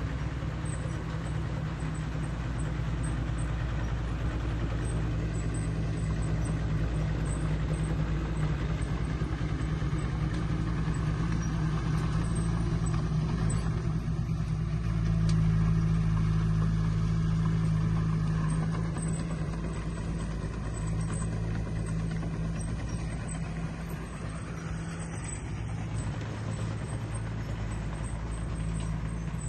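Heavy diesel engine of earthmoving machinery running steadily under load, with a deep, even hum that grows louder for a few seconds past the middle.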